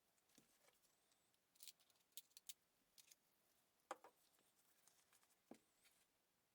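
Near silence with a few faint, scattered clicks and light scratchy ticks, the sharpest about four seconds in.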